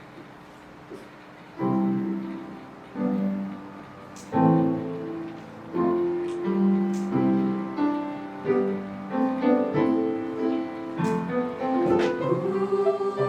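Piano playing a chordal introduction, the first chord struck about a second and a half in, then further chords that ring and fade, growing fuller toward the end.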